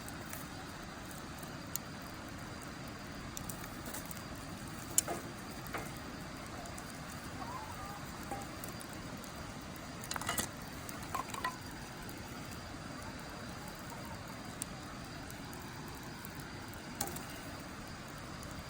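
Wood fire burning in a fire pit, crackling with scattered sharp pops over a steady hiss. The loudest pop comes about five seconds in, and a quick run of pops follows around ten to eleven seconds.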